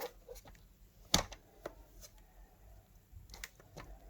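A few light clicks and knocks of objects being handled, the loudest about a second in, with two more near the end.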